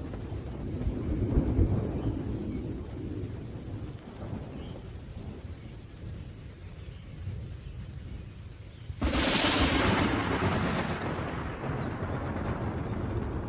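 Thunderstorm with steady rain: low rolling thunder in the first few seconds, then a sudden sharp thunderclap about nine seconds in that rumbles away slowly.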